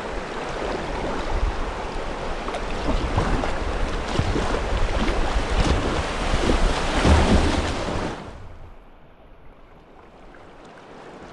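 Loud rushing of river water around a kayak, with wind buffeting the microphone. About eight seconds in the rush drops away suddenly to a much quieter, duller hiss.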